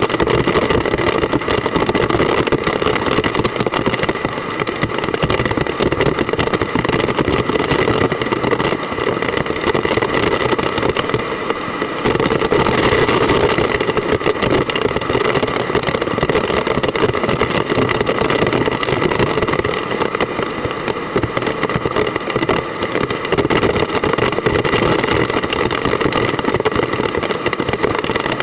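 Heavy rain pouring steadily in a typhoon downpour, a loud, dense, even hiss.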